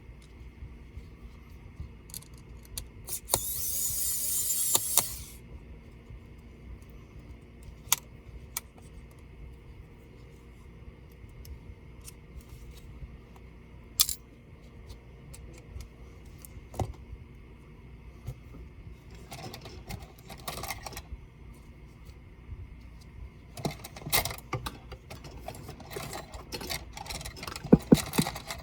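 Scattered small clicks, taps and rattles of tools and laptop parts being handled during a disassembly, with a brief hissing scrape about three seconds in and a flurry of clicks near the end, over a faint steady hum.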